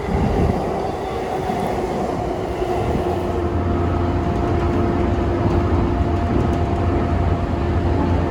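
Train running on the track: a steady rumble with a steady hum over it, the low rumble growing stronger about three seconds in.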